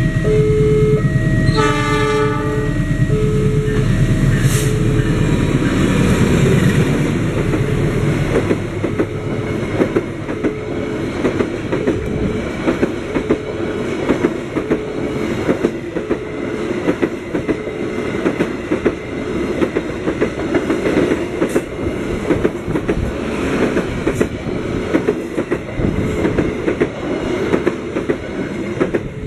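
A diesel-hauled passenger train passing over a level crossing. The locomotive sounds its horn briefly about two seconds in, and its engine rumble is loudest in the first several seconds. Then the coaches' wheels clatter steadily over the rail joints, while the crossing's electronic warning alarm keeps sounding in a repeating pattern of tones.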